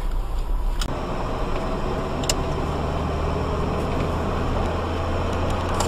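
Car engine running steadily with road noise, with two short clicks, about a second in and again a second and a half later.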